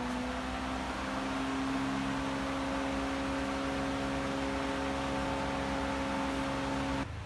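A small engine running at a steady speed after its pitch rises a little at the start, cutting off suddenly near the end.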